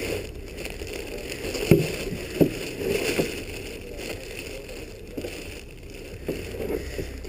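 Packaging being pulled apart and bodywork panels handled while a fairing kit is unboxed: rustling, with a few short knocks and squeaks, three of them close together in the first few seconds.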